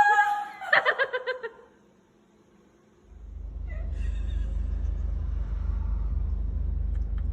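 A cat's drawn-out meow that falls slightly in pitch, then a quick run of short pulsed sounds lasting about a second. After a brief lull, a steady low rumble starts about three seconds in.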